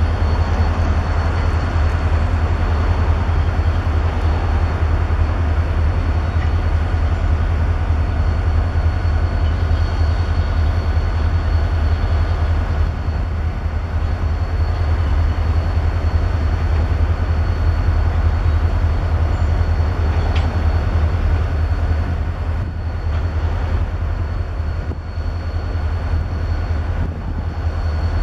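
EMD two-stroke V16 diesel engine of a CN SD70M-2 diesel-electric locomotive running steadily: a deep continuous rumble with a faint high whine above it, easing slightly in the last few seconds.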